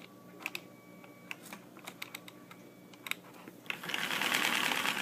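Lego model engine: a few light plastic clicks, then about four seconds in its pistons and crankshaft start running with a steady rattling whir and a rhythmic knock, the knock that the builder says makes it sound like a diesel.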